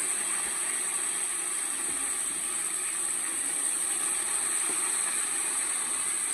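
Pieces of fish frying in oil in a frying pan, the oil sizzling with a steady hiss.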